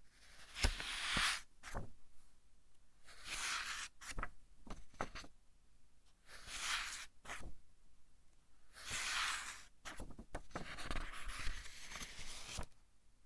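Pages of a thick-paper book being turned one at a time: five papery swishes about two to three seconds apart, each with sharp flicks and snaps as the page is lifted and lands.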